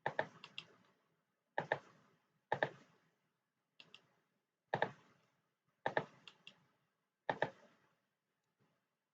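Sharp clicking of computer controls as the artist colours on screen, in small clusters of two or three clicks roughly once a second, with silence between.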